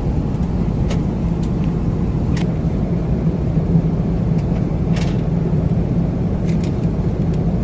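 Steady low drone inside the cabin of an Airbus A330-300 airliner in flight, engine and airflow noise, with a few faint clicks.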